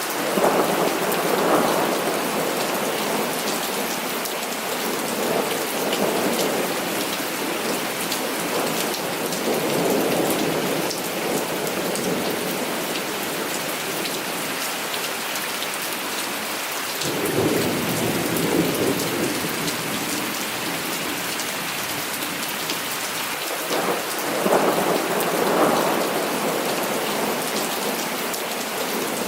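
Heavy rain falling steadily, with several rolls of thunder rumbling up and fading away, the strongest about a third of the way in and near the end.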